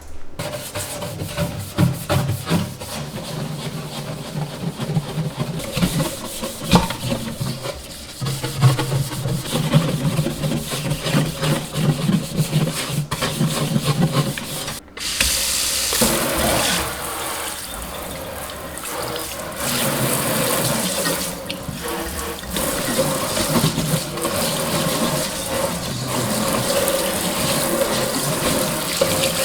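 A kitchen tap running into a sink, with frequent knocks and clicks of things being handled in the basin. About halfway through the sound breaks off briefly and gives way to a steadier rush of running water.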